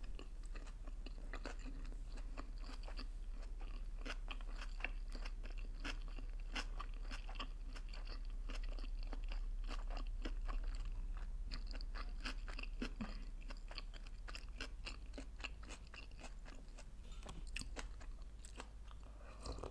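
Close-miked chewing of sushi rolls: a steady run of irregular small clicks and crunches from the mouth.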